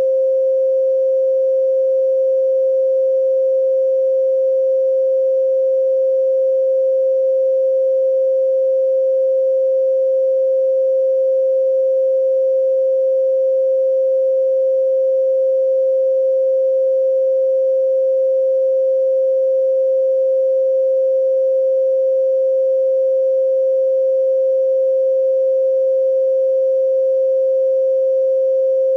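A steady, unbroken 528 Hz sine tone, a single pure pitch held at constant loudness.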